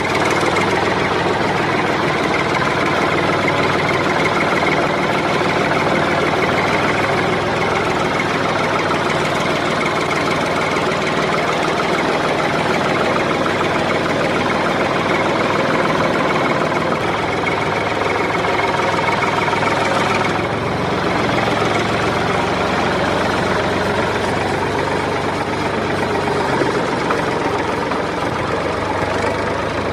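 Mini tractor's engine running steadily with a knocking chug. It dips briefly and changes about two-thirds of the way through.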